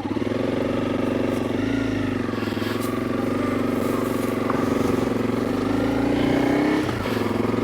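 Honda CRF300 Rally's single-cylinder four-stroke engine running steadily under load in second gear, a gear the rider calls pretty ambitious for the ruts. The note dips briefly about two seconds in and again near the end.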